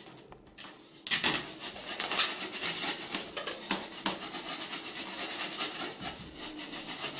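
Rubber balloon being rubbed rapidly back and forth against a child's hair to charge it with static electricity, a fast, even scratchy rubbing that starts about a second in.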